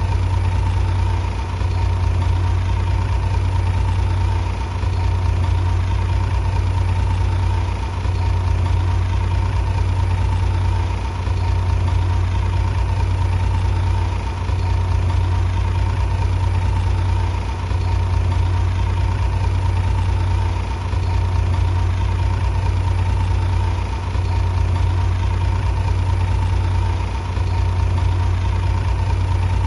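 Heavy diesel engine running steadily with a low drone, easing slightly about every three seconds in a very even rhythm.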